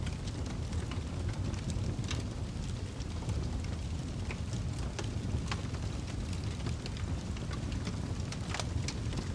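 Wood fire crackling in a fireplace: frequent small, sharp, irregular pops and snaps over a steady low rumble.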